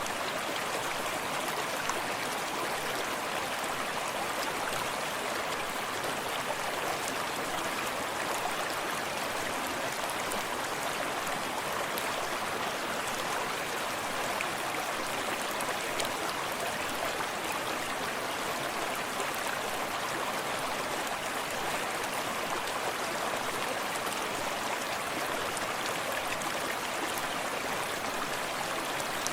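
Small forest stream running steadily over stones, an even rushing with faint splashes and ticks of water.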